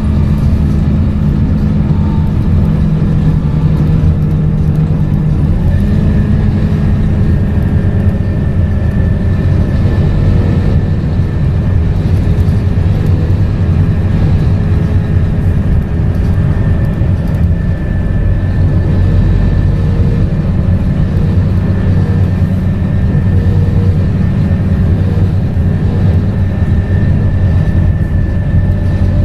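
Scania K230UB single-deck bus, with its five-cylinder 9.3-litre diesel and ZF automatic gearbox, running steadily under way. A thin high-pitched whine joins the engine sound about six seconds in.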